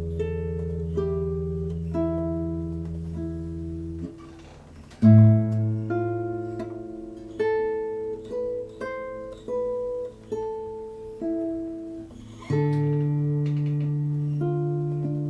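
Solo guitar improvisation: single plucked notes ringing over held bass notes. The bass drops out about four seconds in, and after a brief quieter moment a loud low note is plucked and the melody goes on.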